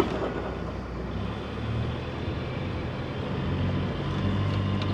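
Boat engine running steadily at low revs, growing a little louder about a second and a half in and again near the end as it is throttled for a mooring approach. A short click is heard at the very start.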